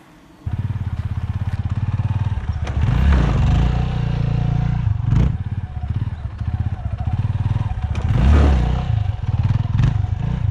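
Yamaha XT250 trail bike's single-cylinder four-stroke engine running with a pulsing note. It is revved up and back down twice, about three seconds in and again about eight seconds in, with a couple of brief sharp knocks between the revs.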